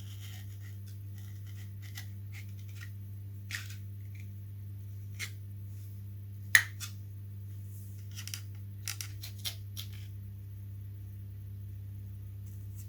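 Scattered small clicks and snips of hand work on foam model-aircraft parts, with one sharp click about six and a half seconds in, over a steady low electrical hum.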